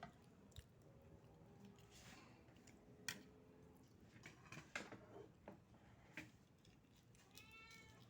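Near silence, with a few faint scattered clicks and taps and a short wavering tone near the end.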